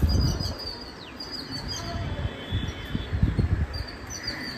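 Birds chirping and calling, short high chirps repeated over and over, with a low rumbling noise underneath.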